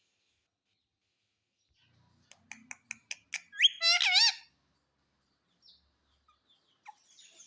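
Pet parrot giving a quick run of short clicking chirps, then a loud screech with a wavering pitch lasting under a second.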